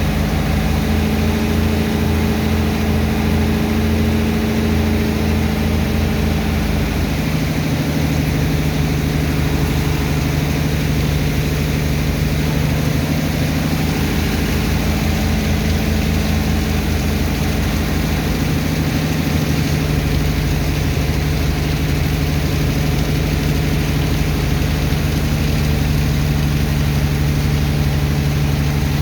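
Large diesel engine of a sand-pumping dredger running steadily under load, its note shifting slightly a few times, over a steady rushing noise.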